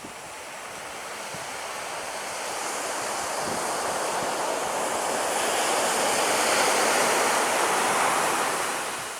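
A jet aircraft passing, its noise swelling steadily over several seconds to a loud peak and then fading quickly near the end.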